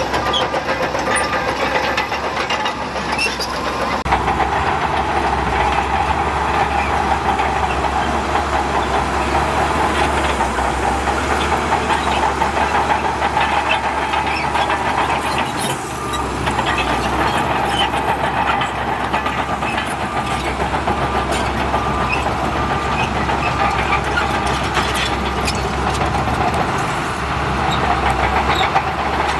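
Heavy diesel earthmoving machinery working: a bulldozer's engine running under load with the clatter of its steel tracks. A reversing alarm beeps at the start and again about three-quarters of the way through.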